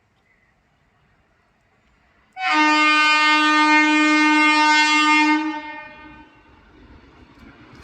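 Indian Railways locomotive horn: one long, loud blast that starts suddenly about two and a half seconds in, holds a steady chord-like tone for about three seconds, then fades away.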